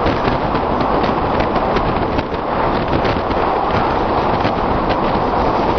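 Express train running at speed: a steady loud rumble of wheels on rails with frequent irregular clicks and rattles, mixed with wind noise.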